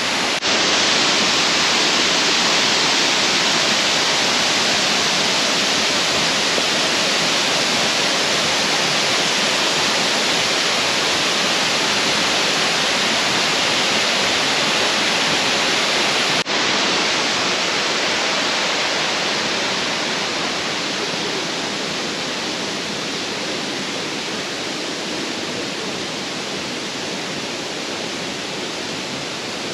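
Steady, loud rush of falling water from Millaa Millaa Falls. There is a brief break about halfway through where the recording cuts, and the sound eases a little toward the end.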